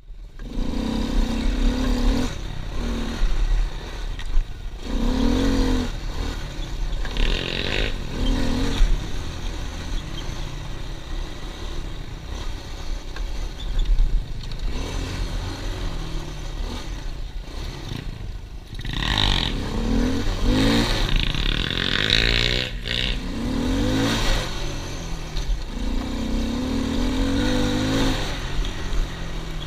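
Pit bike engine running and revving, the pitch climbing and dropping again and again as it is ridden.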